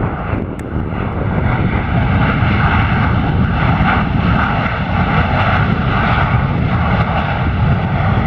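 Airliner's jet engines running loud and steady as it passes, a deep rumble under a whine, growing louder over the first two seconds.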